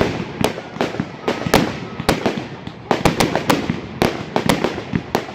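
Fireworks going off in a rapid, irregular string of sharp bangs and cracks, a few per second, over a continuous crackling haze.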